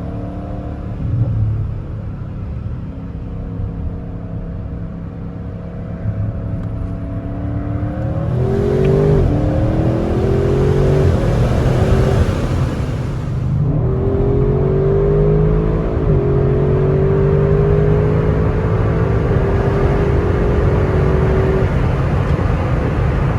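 Audi RS6 C8's 4.0-litre twin-turbo V8 through the RS Sports Exhaust, heard onboard. It runs at a light, steady pace, then about a third of the way in it pulls hard with a rushing hiss, the pitch climbing through a quick upshift. After a brief dip it makes a second, longer climb in pitch under steady acceleration.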